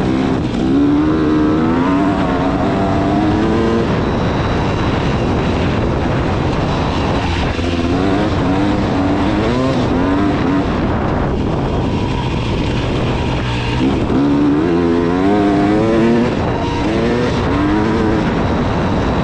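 KTM 300 two-stroke dirt bike engine being ridden hard. The revs climb and drop again and again as the throttle is worked.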